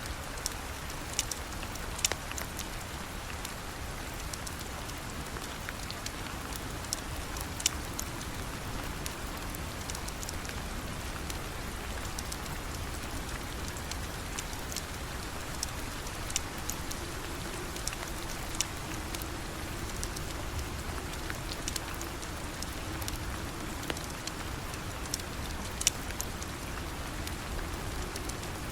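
Steady rain falling, with scattered sharp clicks and pops over it every second or two.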